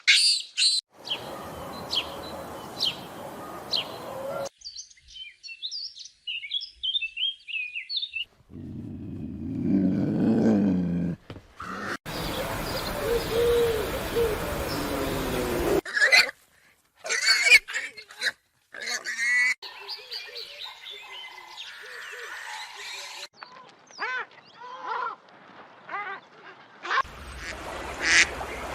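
Several short animal recordings cut one after another, with abrupt changes every few seconds. They are mostly bird calls and chirps, including ducks quacking.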